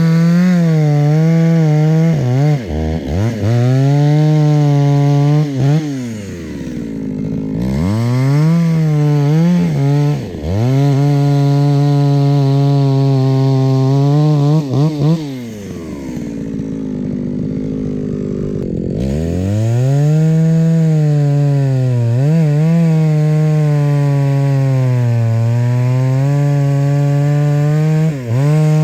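Chainsaw running at high revs while cutting firewood logs. Its note sags briefly several times under load and twice drops to idle, once briefly about a quarter of the way in and once for a few seconds around the middle, then revs back up.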